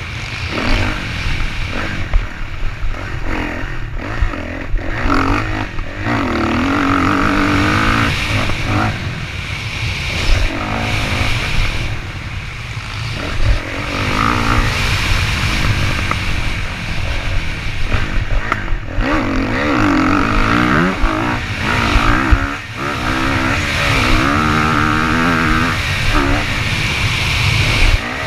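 Motocross dirt bike engine revving as it is ridden, its pitch climbing and dropping several times through the throttle and gears, over a constant low rumble.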